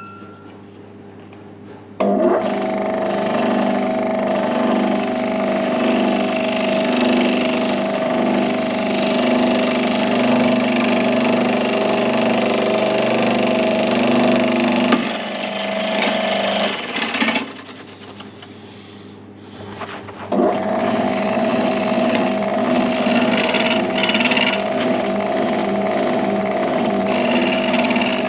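Electric woodworking saw running and cutting pine. It starts about two seconds in, breaks off for a few seconds past the middle, then starts again.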